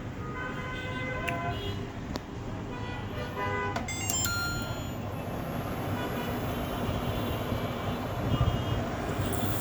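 Street traffic noise with short horn toots here and there and a few clicks about four seconds in.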